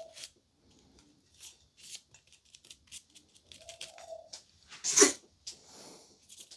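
Light crinkling, rustling and clicking of things being handled, with a louder crinkle about five seconds in. A short, steady whine of under a second sounds about four seconds in.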